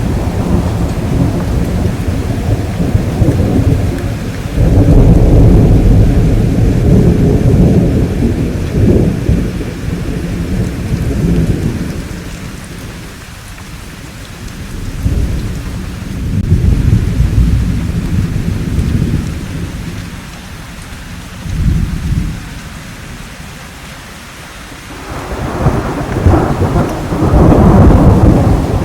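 Thunderstorm: steady rain with repeated rolling thunder. The rumbles swell and fade, loudest a few seconds in and again near the end, with quieter stretches of rain between them.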